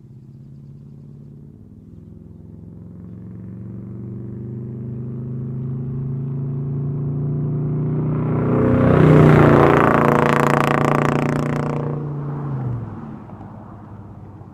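1990 GMC K1500's 350 V8 running through a true dual exhaust with two Jones mufflers and no catalytic converters, driving past: the exhaust note swells as the truck approaches, is loudest about nine seconds in, then fades, and the engine note drops near the end.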